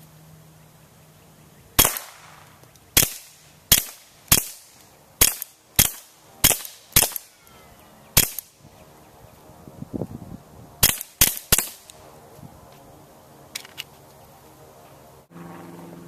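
Suppressed Smith & Wesson M&P 22 .22 LR pistol fired about a dozen times: a string of nine shots roughly every half second to second, a pause, then three quick shots.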